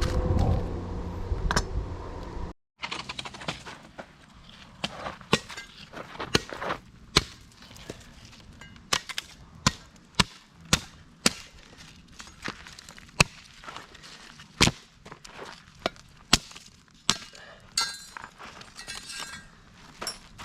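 A string of sharp, irregular knocks and snaps, roughly one a second, as of hard objects or wood being handled and struck; wind on the microphone in the first couple of seconds, then a cut.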